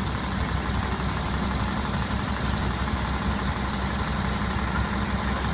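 A large vehicle's engine idling steadily with a low rumble.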